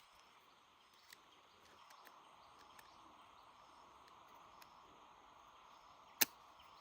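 Faint, steady outdoor background noise with a few light scattered clicks, and one sharp click or tap about six seconds in.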